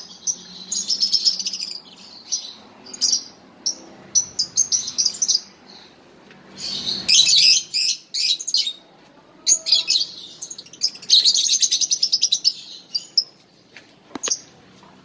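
A songbird singing in bursts of rapid, high-pitched chirps. Each phrase lasts a second or two, with short pauses between them.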